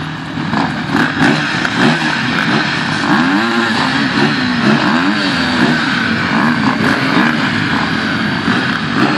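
Racing motorcycle engines revving, their pitch rising and falling again and again, most clearly through the middle stretch, over a steady engine din.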